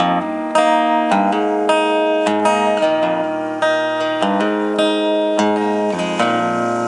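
Acoustic guitar strumming chords in a steady rhythm, an instrumental passage between sung lines of the song.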